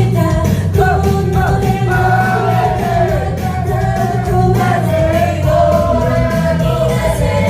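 Live pop performance: singing over a loud backing track with a steady beat, picked up by a phone's microphone in the hall.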